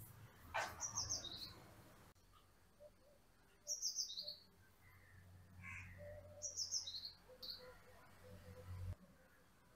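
A small bird chirping: three short phrases, each a quick run of high notes stepping down in pitch, about three seconds apart. A brief sharp rustle comes just before the first phrase, and a faint low hum cuts off near the end.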